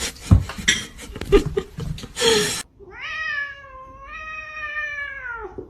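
A few knocks and clatters, then a domestic cat giving one long drawn-out meow that dips in pitch, jumps up about halfway and falls away at the end.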